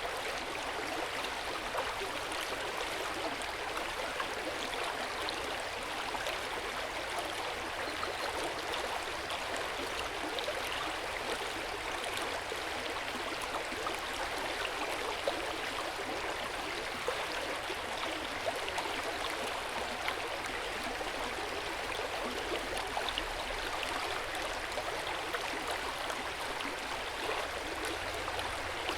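Hot-spring water flowing steadily in an open-air bath, an even rush of running water with many small splashes and trickles throughout.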